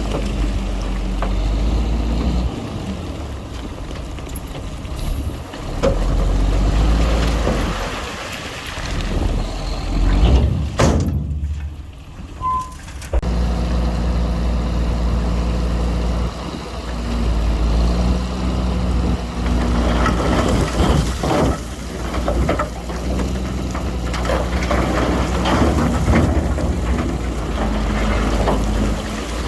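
Heavy diesel engines of earthmoving machinery running steadily, with a brief break about a third of the way through.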